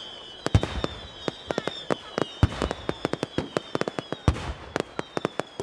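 Fireworks going off: dozens of sharp bangs in quick, irregular succession, over a high whistling tone that slowly falls in pitch.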